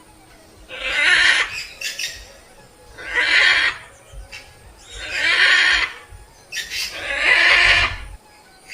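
An animal giving four loud, harsh, breathy calls, each about a second long and about two seconds apart.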